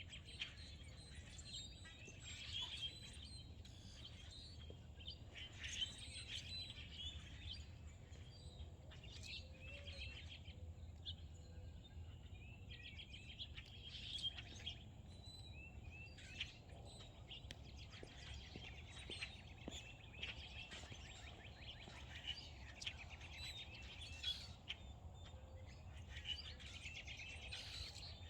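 Several songbirds chirping and singing in overlapping short calls and trills throughout, over a steady low hum.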